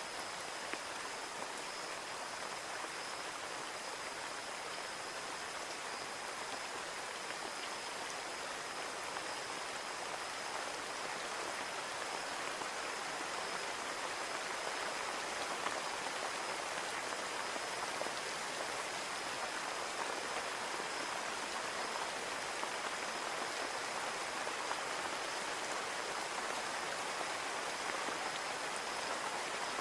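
Steady rain falling on a window pane: an even hiss with scattered small drop ticks, growing slightly louder about halfway through.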